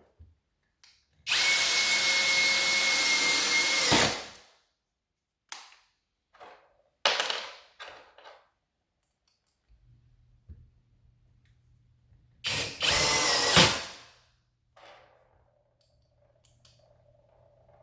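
Skil PWRCore 20V brushless cordless drill driver running in two bursts, one of nearly three seconds and a shorter one later. Each is a steady motor whine that winds down when the trigger is let go, with a few small clicks and knocks between them.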